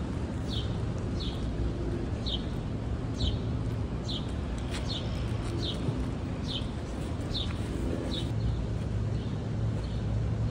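A bird calling over and over, short falling chirps roughly once a second that stop about three-quarters of the way through, over a steady low rumble.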